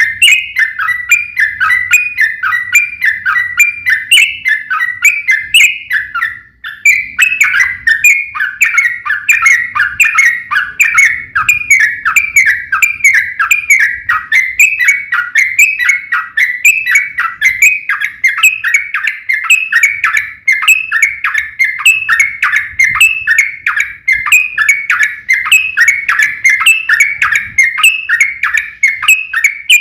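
Yellow-vented bulbuls singing in long, fast strings of bubbly chirping notes with barely a break. It is the competitive 'fighting' song used as a lure to make other bulbuls answer. There is a short pause about six and a half seconds in.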